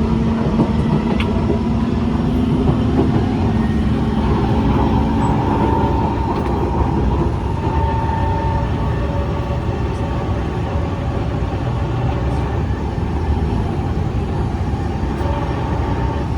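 Kawasaki C151 MRT train running between stations, heard from inside the car: a steady rumble of wheels on the track, with a low hum from the drive equipment that fades out about six seconds in and a higher tone that comes and goes.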